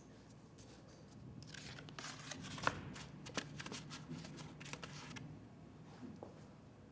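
Faint paper rustling with small crackles and taps as a paper butterfly body is handled and pressed down onto the glued craft, mostly between about one and a half and five seconds in.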